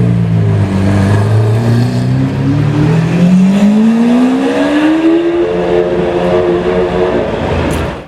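Supercar engine accelerating hard, its pitch climbing steadily for about three seconds, then holding high before fading near the end.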